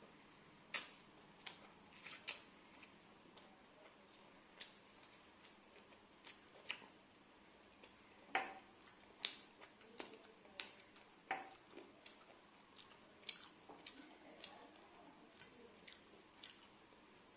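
Close-miked eating sounds: irregular soft mouth clicks and wet smacks of chewing rice and curry, a few a second at the busiest, with a sharper smack about eight seconds in.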